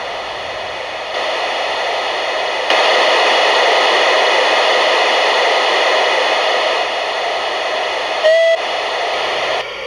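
Steam sound unit of a gauge 1 Märklin Gt2 4/4 Mallet locomotive model giving a steady steam hiss that grows louder in two steps, with one short whistle toot about eight seconds in. The hiss drops back shortly before the end.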